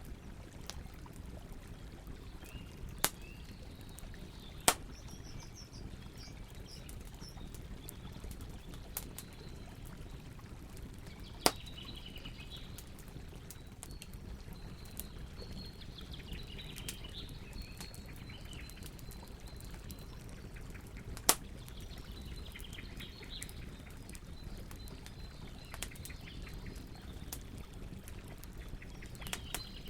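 Campfire crackling over a steady low hiss of burning wood, with four loud sharp pops spread through it. Birds chirp on and off in the background.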